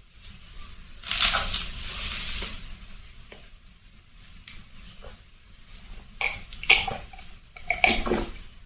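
Close-miked mukbang eating sounds: a long hissy slurp of soup noodles from about a second in, then a few sharp mouth smacks and clinks near the end.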